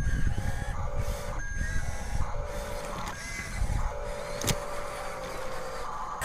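Electronic reversing-beep sound effect of a Huina radio-controlled construction toy, sounding on and off in uneven stretches over a low rumble from the model's running. There is one sharp click about four and a half seconds in.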